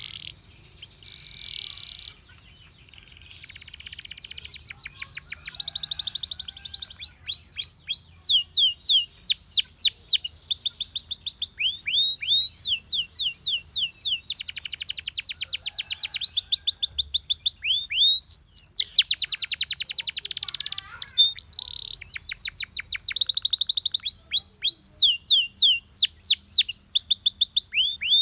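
Domestic canary singing a long, varied song: fast runs of repeated chirps and trills, each phrase switching to a new note type every second or two, starting softly and getting louder after the first few seconds.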